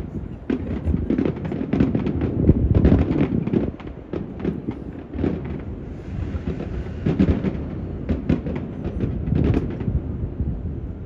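Aerial fireworks bursting, many bangs in quick irregular succession, over wind buffeting the microphone.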